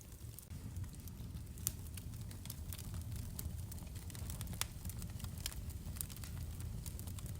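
Wood fire burning in a fireplace: a steady low rumble of flames with irregular sharp crackles and pops, two of them louder than the rest.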